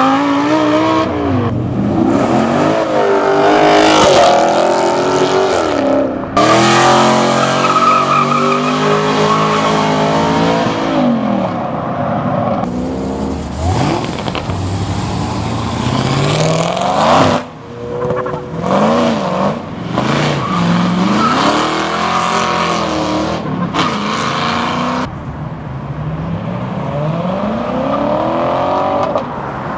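A run of performance cars accelerating hard away from a car meet, one after another, among them a Lamborghini Huracán, a Cadillac sedan and a C7 Corvette. The engines rev up and drop back repeatedly through the gear changes, and the sound cuts abruptly from one car to the next.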